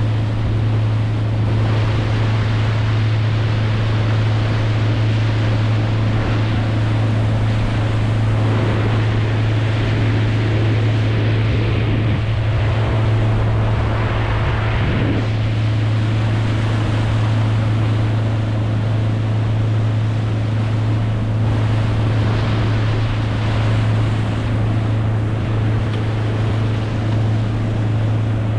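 Boat motor running at a steady speed, one unchanging low drone, with water rushing and wind hiss over it.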